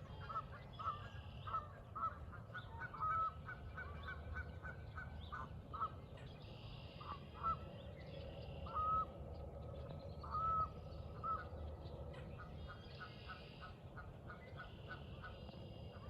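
Birds calling: a long run of short calls, all at about the same pitch, with a few held a little longer, over a low steady rumble.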